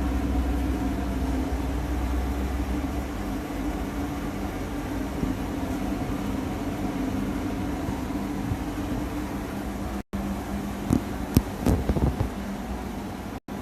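Steady mechanical hum of a running machine, with a deeper drone that drops away a few seconds in. Near the end the sound cuts out briefly twice, and a few sharp knocks and clatters follow.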